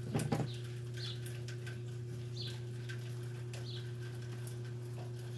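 A steady low hum runs throughout, with a faint short high chirp repeating about every second and a quarter. There is a brief knock right at the start.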